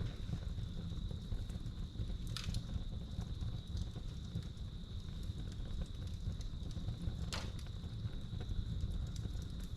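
Wood fire crackling in a fireplace, with scattered small ticks and two sharper pops about two and a half and seven and a half seconds in, over a low steady rumble. Crickets trill steadily at one high pitch throughout.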